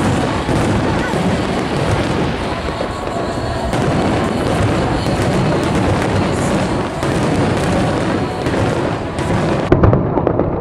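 A fireworks display going off in a continuous barrage over the noise of a large crowd, with one sharp, louder bang near the end.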